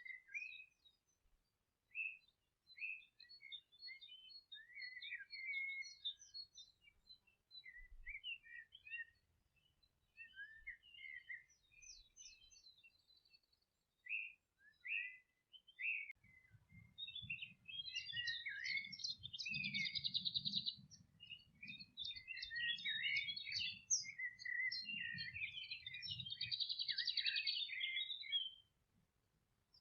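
Several songbirds chirping and singing on a meadow: scattered short calls at first, then a dense stretch of overlapping songs with fast trills from a little past halfway until near the end. A low rumble runs under the dense part.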